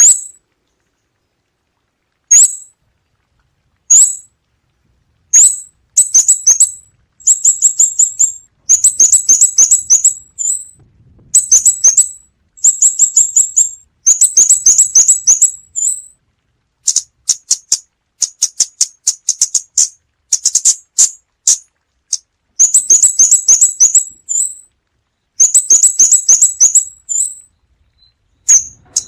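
Scarlet-backed flowerpecker calling with sharp, very high ticking notes. They come singly at first, then in quick runs of many ticks.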